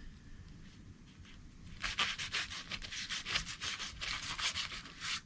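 A quick series of rubbing, scraping strokes, about five a second, starting about two seconds in.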